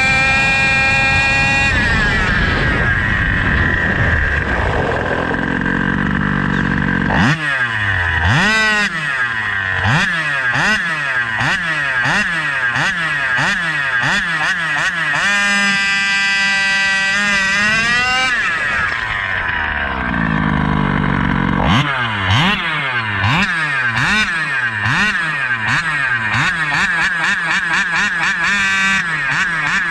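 Small 29cc two-stroke reed-valve engine (SCZ E290) running at high revs, then revved in repeated quick throttle blips, each a rising then falling whine. In the middle it holds a high-rev run for a few seconds before dropping off, and the blipping then resumes.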